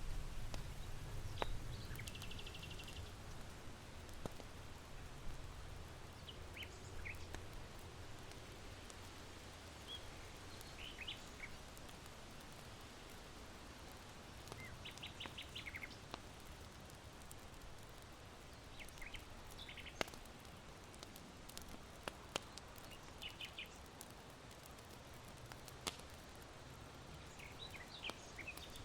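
Small birds chirping in short scattered bursts over a low, steady rush of wind, with a few sharp single pops from a charcoal fire in an irori hearth.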